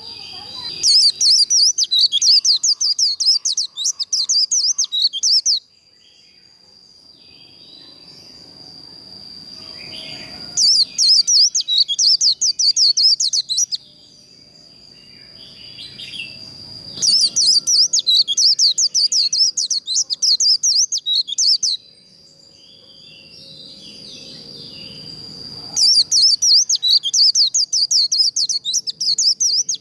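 White-eye singing the fast, jumbled 'líu' warbling song in four bouts of about four seconds each, separated by short pauses. A thin steady high tone runs underneath.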